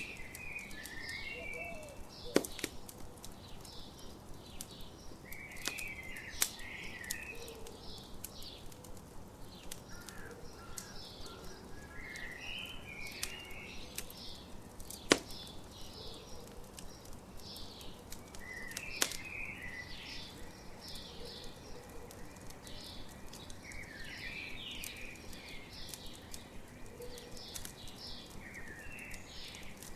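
Campfire crackling, with a few sharp loud pops, while songbirds sing a short chirping phrase again every few seconds over a steady faint background.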